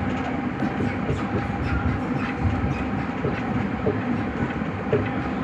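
Nagoya Higashiyama Line 5050-series subway train running along the line: a steady rumble of wheels on rail with a steady hum and scattered faint clicks.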